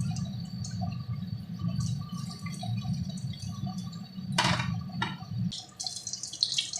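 Breaded chicken pieces deep-frying in hot mustard oil, the oil sizzling with many small quick crackles and one louder burst of crackling about four and a half seconds in. A low rumble underneath stops about two-thirds of the way through.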